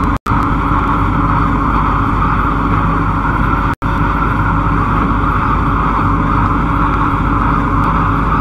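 MTR Kwun Tong line C-Train running at speed between stations, a steady, loud rumble and rolling roar heard from on board. The sound cuts out to silence for an instant twice.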